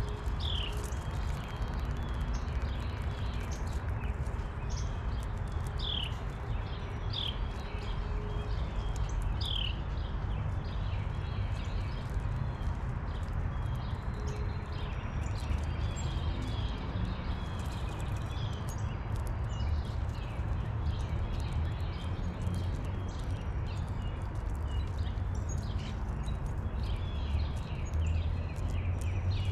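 Birds giving a few short high chirps in the first ten seconds, among many small ticks and taps, over a steady low rumble.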